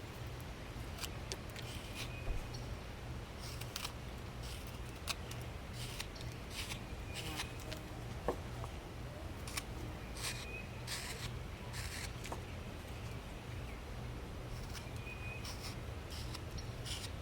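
Flexcut roughing knife slicing and paring a wooden block in short, irregular strokes, each a brief dry scrape, over a steady low hum.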